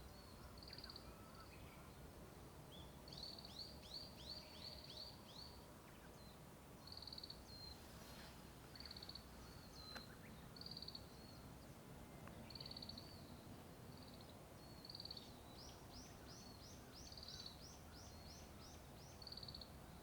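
Small songbirds singing: repeated short high notes, with two quick runs of falling notes, one a few seconds in and one near the end. A faint low rumble of road traffic underneath.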